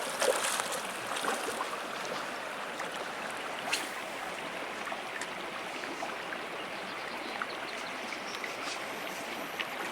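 River water rushing steadily, with one short sharp click about four seconds in.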